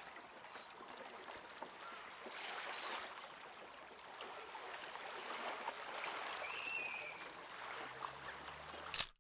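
Seawater gently lapping at the shore, with a steady watery wash and small scattered ticks. A short bird chirp comes about seven seconds in, and a sharp click near the end before the sound cuts off.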